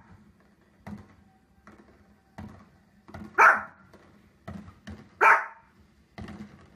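Small fluffy dog barking twice, loud sharp barks about three and a half and five seconds in, with fainter dull thumps in between.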